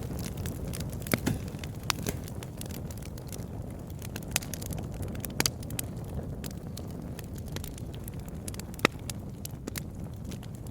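Campfire burning: a steady low rumble of flames with wood crackling and popping at irregular moments, one pop near the end louder than the rest.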